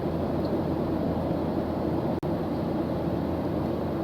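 Steady low rumbling background noise with a hiss above it, cutting out for an instant just over two seconds in.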